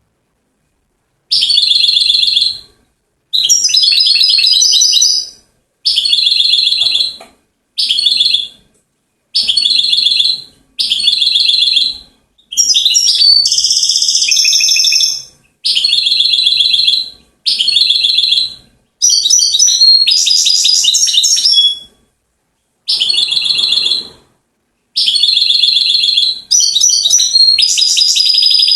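European goldfinch singing: about a dozen bursts of rapid, high trills and twittering warbles, each a second or two long, separated by short silences.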